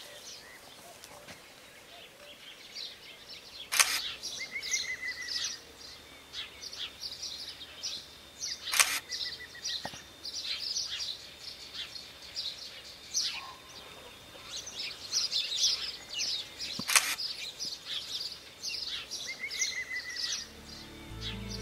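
Birds chirping and singing, with a short trill repeated several times, broken by three sharp clicks of a camera shutter about 4, 9 and 17 seconds in.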